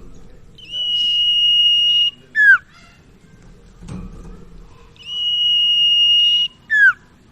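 Common iora (sirtu, cipau) singing its phrase twice: a long, steady high whistle held about a second and a half, then a short note that drops sharply in pitch.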